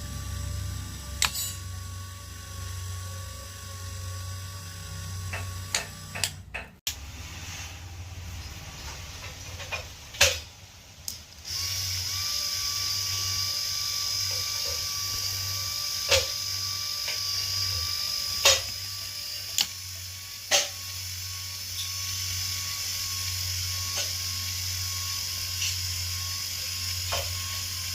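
A small motor-driven mechanism running with a low hum and a steady high whine. Sharp clicks come every second or few seconds, and the whine gets louder about a third of the way in.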